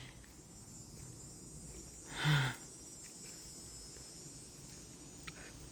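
Cicadas singing in a steady, high-pitched chorus. A brief louder murmur of voice cuts in once about two seconds in.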